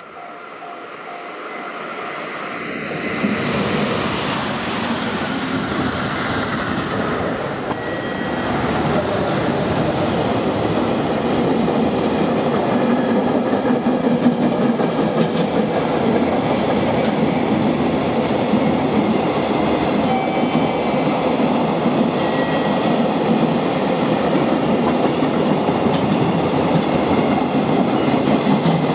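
A JR 373-series electric multiple unit passing, building up over the first few seconds. About eight seconds in, a JR Freight EF210 electric locomotive and its freight train run by, their wheels on the rails making a steady noise.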